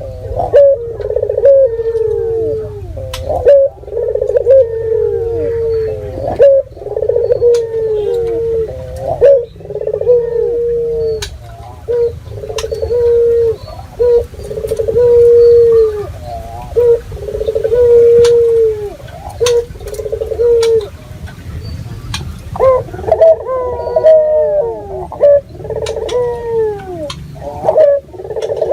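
Puter doves (domestic ringneck doves) cooing over and over, several birds overlapping, the calls growing denser near the end. Sharp clicks are scattered among the coos.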